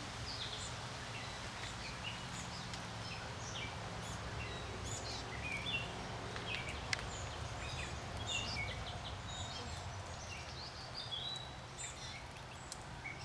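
Small birds chirping in many short, high notes that overlap and scatter throughout, over a steady low hum.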